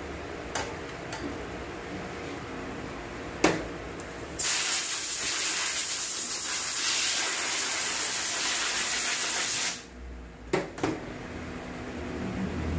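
A loud, steady pressurised hiss lasting about five seconds, starting a few seconds in and cutting off sharply. Sharp clicks and knocks come before it and just after it.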